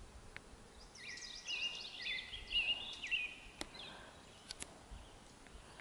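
A songbird singing a run of quick, high chirping phrases for about two and a half seconds over a faint outdoor hush, followed by a few sharp ticks.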